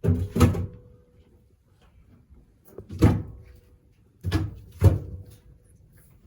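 Loud hard knocks and bangs in three groups: a double knock at the start, a single one about three seconds in, and another double past four seconds. A faint ringing tone hangs after the first and last groups.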